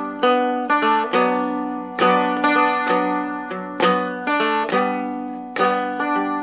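A four-string Seagull Merlin M4 dulcimer-style instrument being picked and strummed, a melody line stepping over open strings that drone throughout, with a fresh pick stroke about every half second to second.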